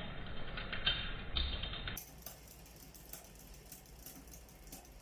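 Metallic clicking and rattling from a mountain bike's chain and derailleur as they are worked during a derailleur adjustment. The first two seconds hold irregular sharp clicks; after an abrupt change it is much quieter, with faint scattered clicks.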